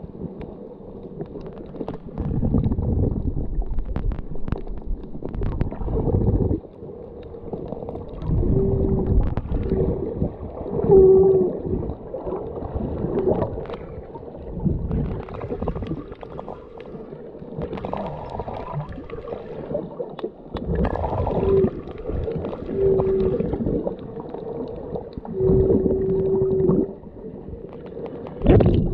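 Underwater sound of snorkeling: muffled water rushing and gurgling in irregular surges, with short low hooting tones now and then.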